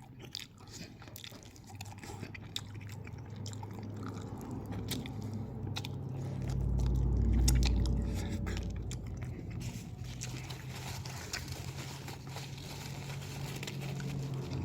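Close-up chewing and crunching of crispy chicken wings, with many scattered sharp clicks over a steady low hum, and a louder low rumble around the middle.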